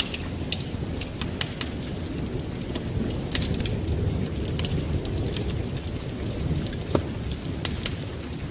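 Wood fire crackling in a fireplace: sharp, irregular pops and snaps over a low steady rumble.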